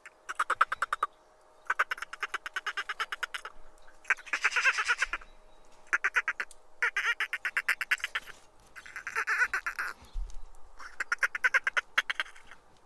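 An animal calling in about seven bouts, each about a second long, of fast, evenly spaced pulses, with short pauses between the bouts.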